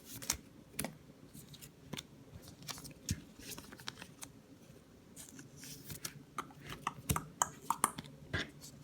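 Handling of Pokémon trading cards and booster-pack wrappers: scattered light clicks, snips and crinkles, getting busier in the second half.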